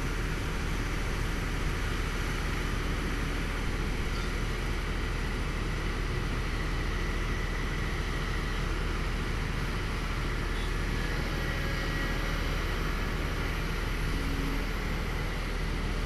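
Hydraulic excavator's diesel engine running steadily, with no breaks or sudden knocks.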